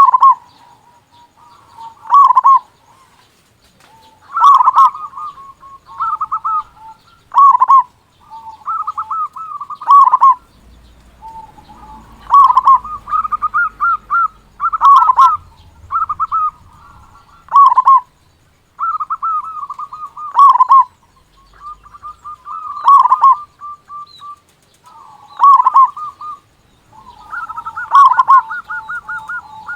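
Zebra dove (perkutut) cooing in repeated phrases: soft rolling trilled notes followed by a loud, deep accented coo, repeating about every two to three seconds. The bird is in full song.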